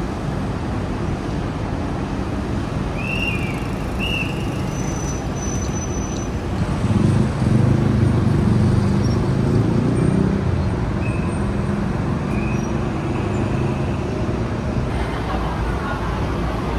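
City street traffic: a steady rumble of passing cars, with one vehicle going by louder, its engine rumbling, from about seven to ten seconds in.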